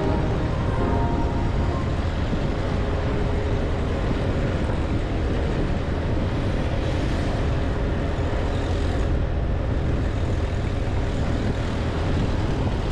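Motorbike running steadily on the road, with a heavy low rumble of wind buffeting the microphone.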